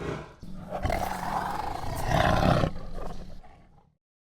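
Tiger roaring: one long, rough roar lasting nearly four seconds, loudest just past the middle before it fades out.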